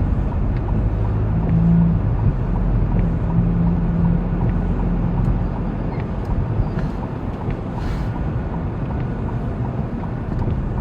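Floodwater pouring over a road in a steady, continuous rush, with a faint low hum through the first half.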